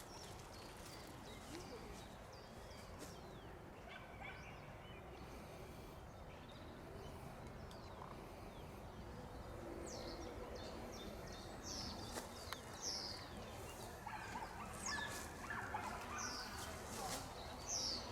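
Small birds calling with short, high, falling chirps, more frequent in the second half, over a steady low outdoor background hum.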